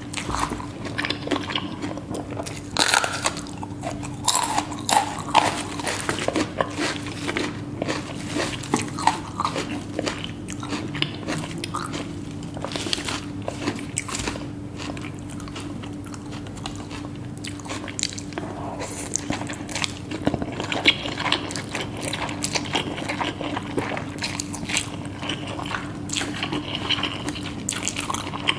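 Close-miked eating sounds: irregular crunchy bites and chewing of food, with a steady low hum underneath.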